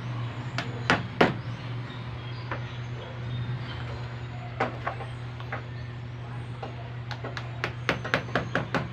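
Upholstery staple gun firing staples into a motorcycle seat cover: a few single sharp snaps, then a quick run of about eight near the end, over a steady low hum.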